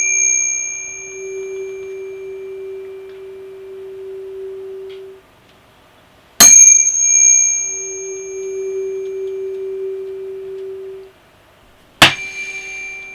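Tuning fork struck and ringing, over a glass resonance tube standing in water. Each strike gives a bright metallic ping that fades within a couple of seconds, leaving a steady pure note that swells as the air column in the tube resonates, then stops abruptly. It is struck again about six seconds in and once more near the end.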